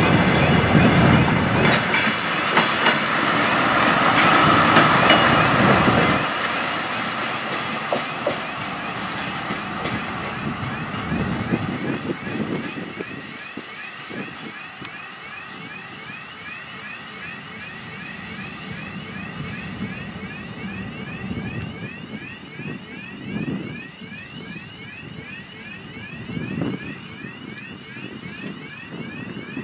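A passenger train's wheels running past on the rails, loud for about the first six seconds and then fading away. After that comes a quieter, steady rail-and-diesel background as the diesel multiple unit pulls away, with a high chirp that rises and repeats several times a second.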